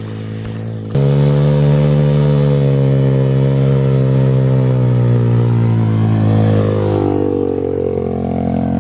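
125cc pit bike engine running at steady revs. It gets abruptly louder about a second in, and the revs sag and waver near the end.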